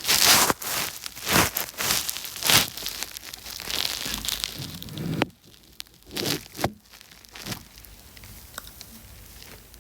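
Rustling and crinkling close to the microphone, in a quick run of noisy bursts for about five seconds, then a few short ones, then it dies away to a low hiss.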